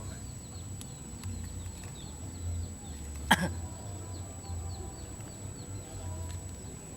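Faint high chirping repeated every fraction of a second over a low outdoor rumble, with a single short cough about three seconds in.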